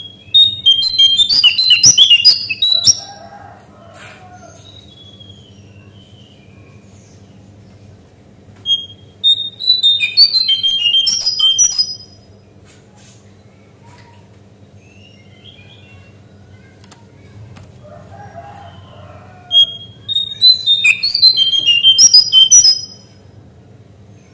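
Cingcoang coklat (lesser shortwing) singing three loud bursts of quick, jumbled high notes, each about three seconds long and spaced about ten seconds apart, over a low steady hum.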